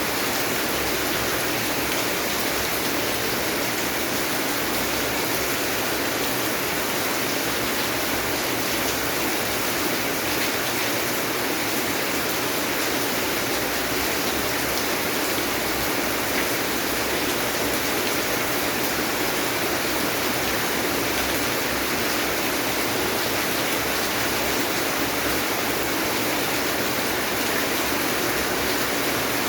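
Steady rain falling: an even, unbroken hiss of many drops with no change in strength.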